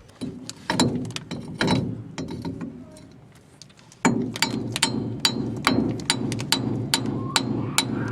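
Hand tools working on the bolts of a jeepney's differential carrier: scattered sharp metal clicks and knocks, then from about four seconds in a louder, steady, rhythmic run of metallic clicking from a wrench.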